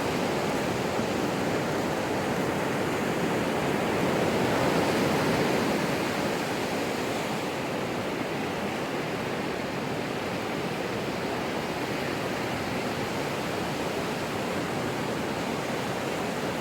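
Ocean waves washing on a shore: a steady rushing with one gentle swell about four seconds in.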